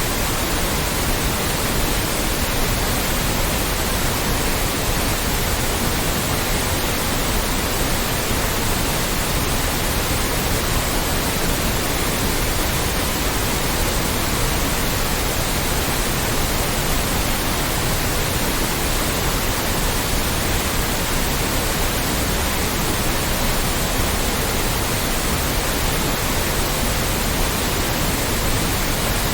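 Steady white noise: an even, unbroken hiss spread across all pitches, played loud at a constant level.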